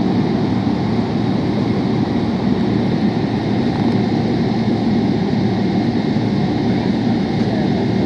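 Steady engine and air noise inside the cabin of a Boeing 777-300, a loud even rush with faint steady tones above it.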